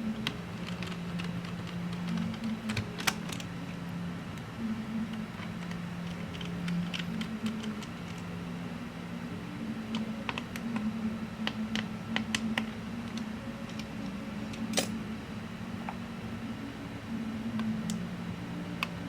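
Irregular light clicks and taps over a steady low hum that switches back and forth between two close pitches, with a sharper click about 3 s in and another about 15 s in.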